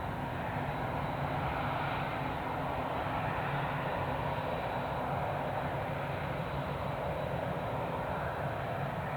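Jet airliner engines running with a steady, unbroken rumble.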